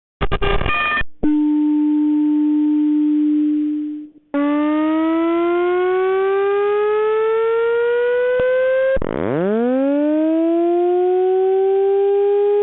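Synthetic alarm-signal tones from a Simplex 4100 voice evacuation system's stored audio, heard at low fidelity. A brief buzzy burst comes first, then a steady tone for about three seconds. After a short gap a tone sweeps slowly upward for about five seconds, then drops sharply and climbs back up like a siren.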